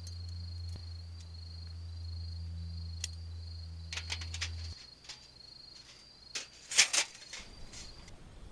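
A cricket trilling in a high, evenly pulsed tone over a steady low hum, which cuts off suddenly about halfway through. Several sharp clicks and knocks come through, the loudest near the end.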